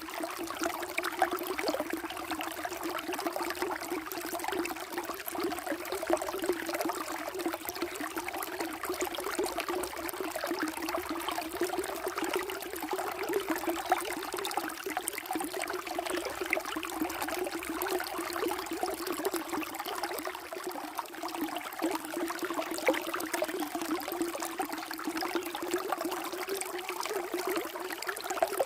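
Water flowing steadily, like a small stream, with a constant rush and fine flickering splashes over it.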